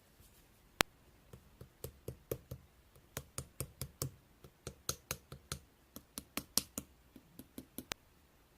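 A sharp click, then a quick run of light taps or clicks, about four a second, which stops shortly before the end.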